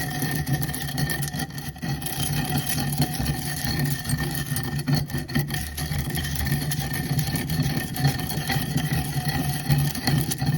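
Roasted whole spices (cardamom, cinnamon and the like) being crushed and ground with a wooden pestle in a stone mortar: continuous gritty scraping and crunching.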